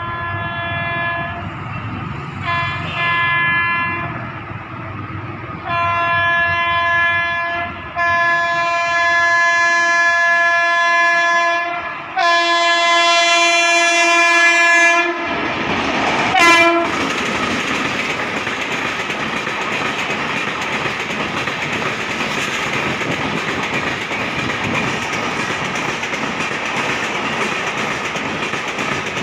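Train horn sounding about five blasts, the longest about four seconds, as the train approaches, then the train running past with a steady rumble of wheels on the rails for the rest of the time.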